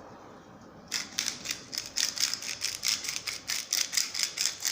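Salt being added from a salt dispenser: a quick, even run of sharp clicks, about five a second, starting about a second in.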